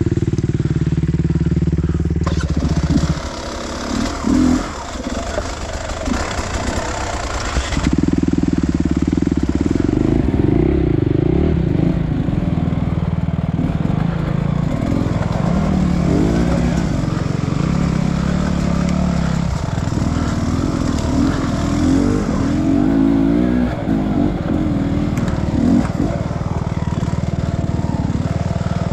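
Dirt bike engine running and revving unevenly as it is ridden, its pitch rising and falling. It drops back for about five seconds near the start, then picks up again.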